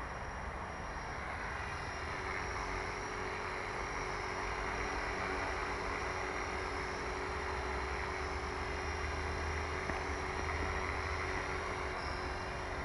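Steady machine running noise with a constant hum, from the X3V under test after repairs.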